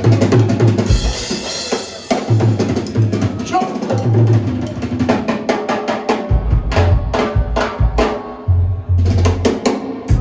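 Live drum kit solo: rapid snare hits, rimshots and rolls over kick drum and deep low notes, in a steady reggae rhythm.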